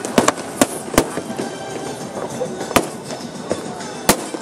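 Aerial fireworks shells bursting in an irregular string of sharp bangs, about six in four seconds, over a steady background of music and crowd voices.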